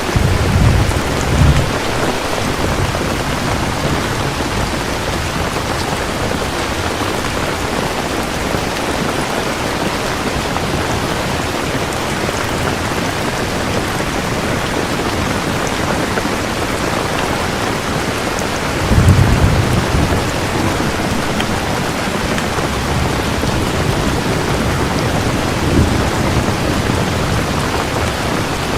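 Steady heavy rain with thunder rolling in: a low rumble at the start, a louder roll about two-thirds of the way through, and a smaller one near the end.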